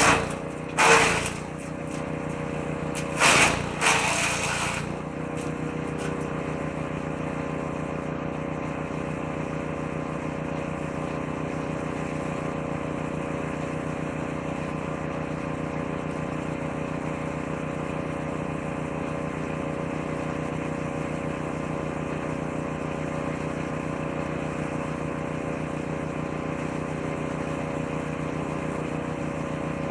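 Woodchipper-shredder engine running steadily at constant speed. Four loud bursts in the first five seconds as branches are fed into the shredder drum.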